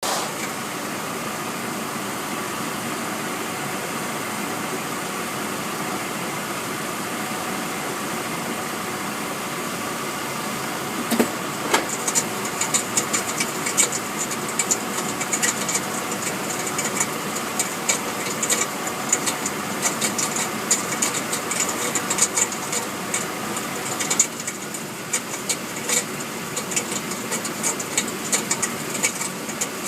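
Hummer engine idling steadily. About eleven seconds in, a fast, irregular rattle of sharp ticks starts underneath and keeps going. It is a noise that comes only in gear with the foot on the brake, not in park or while driving, and the owner suspects the torque converter, transmission or differential.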